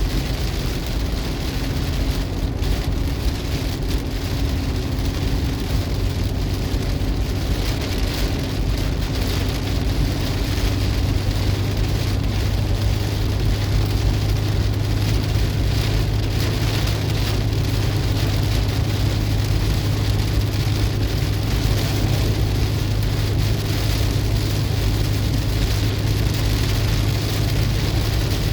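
Heavy rain pelting a car's roof and windscreen, heard from inside the cabin, over the car's low steady drone, which grows stronger about ten seconds in.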